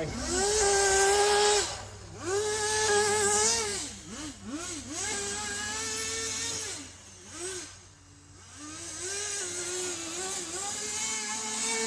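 Kyosho Blizzard RC snow vehicle's small nitro engine revving up and down as the throttle is worked, falling off briefly near two and four seconds in and almost to idle around eight seconds before picking up again to a steadier pitch.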